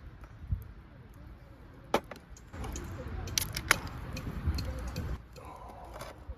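Handling noise: several sharp clicks and clinks, with a stretch of rustling from about two and a half to five seconds in.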